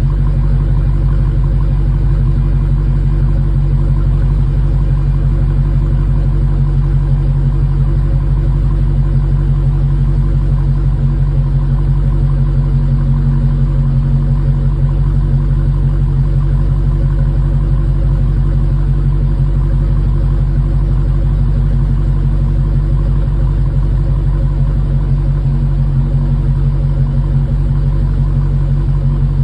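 2021 Dodge Challenger engine idling steadily after a cold start, with an even low exhaust note and no revving.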